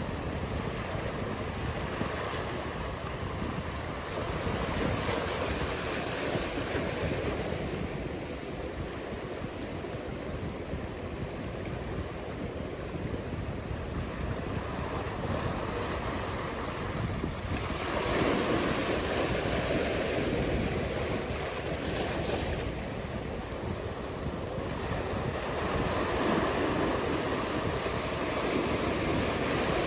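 Ocean surf breaking in a steady wash, swelling louder a few times as sets of waves come in, with wind buffeting the microphone.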